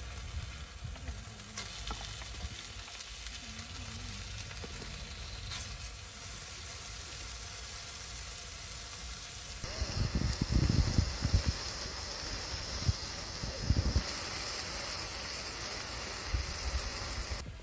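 Food sizzling as it fries in a hot pan, a steady hiss. About ten seconds in the sound changes suddenly to a louder, brighter hiss with low rumbling bumps.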